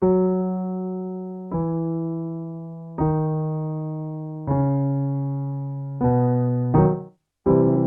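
Piano playing a slow descending five-note scale, one note about every second and a half, each struck and left to fade, stepping down in pitch. Near the end a short note and a fuller chord follow, setting up the next repeat of the warmup pattern.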